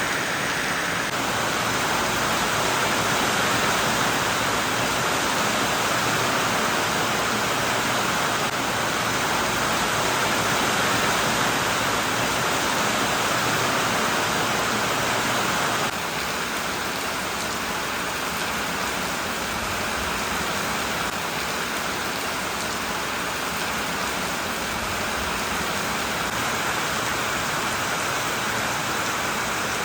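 Heavy rain falling steadily, a dense even hiss of rain on surfaces; about halfway through it drops a little in level and then carries on unchanged.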